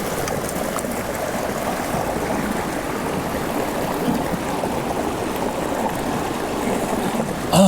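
Steady rush of a mountain stream flowing into a canyon pool.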